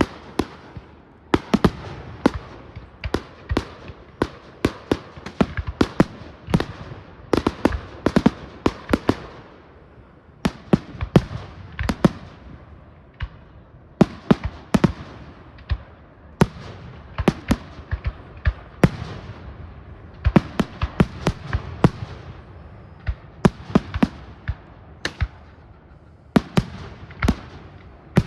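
Fireworks display: a steady barrage of aerial shell bursts, sharp bangs coming in clusters of several a second, with rumbling and crackle between them.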